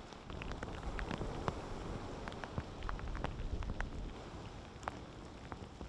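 Rain falling, with scattered single drops tapping close by, over a low rumble of wind on the microphone.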